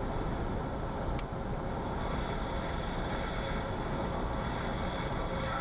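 Steady cabin noise of a single-engine Cessna landing: the engine running at low power under a constant rush of airflow, with a small click about a second in.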